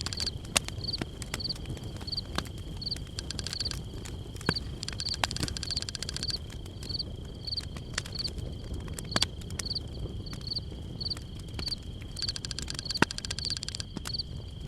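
Chorus of calling insects: a steady high-pitched drone with a short chirp repeating two to three times a second, and a few scattered clicks over a low rumble.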